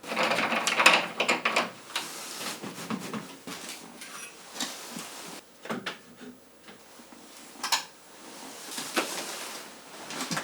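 Irregular clattering and handling noises: a louder rustling scrape in the first two seconds, then scattered knocks and clicks.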